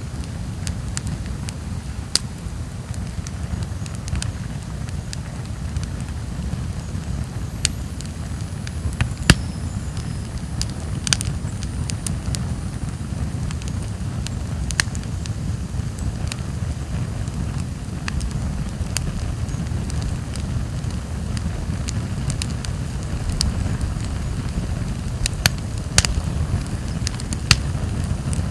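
Wood campfire burning: irregular sharp crackles and pops from the burning logs over a steady low rumble.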